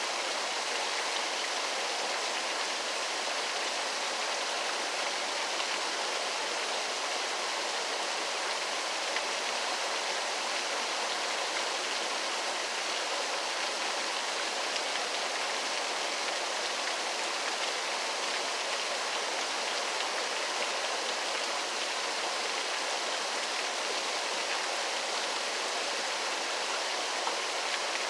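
Waterfall: a steady, unbroken rush of falling water, hissy rather than deep, with no rumble in the bass.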